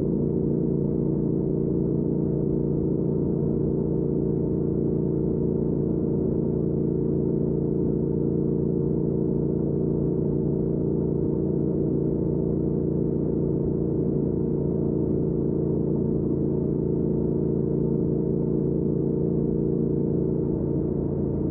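2019 Triumph Speed Twin's 1200 cc parallel-twin engine, breathing through an aftermarket Weslake Shorty Pro exhaust, running at a steady engine speed while cruising, its pitch holding flat throughout.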